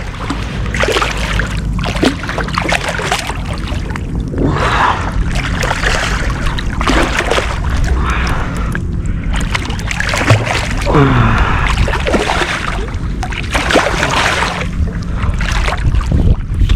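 Steady wind rumble on the microphone with water splashing around a kayak, and a few short knocks.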